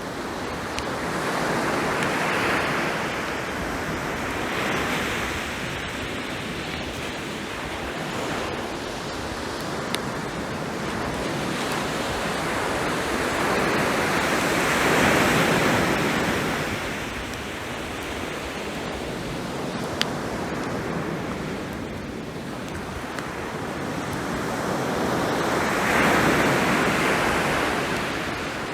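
Ocean waves washing onto the shore, the rushing rising and falling in slow swells, with a few sharp pops from a driftwood campfire.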